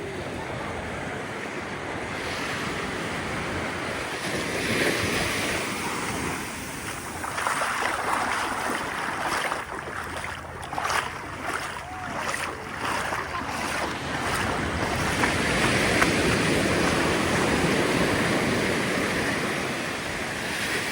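Ocean surf washing onto a sandy beach, swelling and easing several times as waves break, with wind buffeting the microphone.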